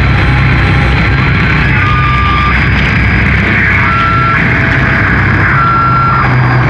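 Sludge metal: loud, heavily distorted, down-tuned guitars and bass sustaining a dense low drone without a break. Short high steady tones ring out above it three times.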